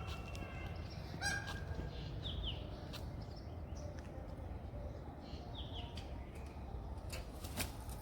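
Birds calling: short, high, falling chirps repeated every few seconds, with a brief higher call and a few clicks about a second in, over a low steady rumble.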